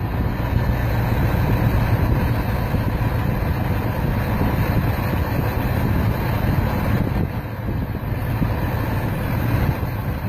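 1986 GMC truck engine idling while automatic transmission fluid is slowly fed into its intake to clean carbon off the valves. The idle sags briefly about seven seconds in.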